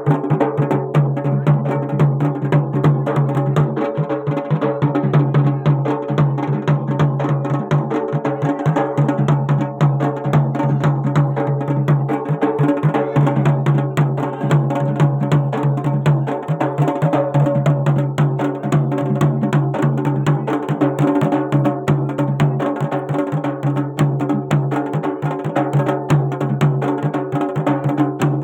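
Garhwali jagar folk music: fast, continuous hand drumming over a steady low drone.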